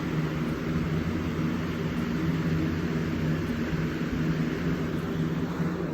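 Steady mechanical hum: a low drone with a rushing noise, unchanging throughout.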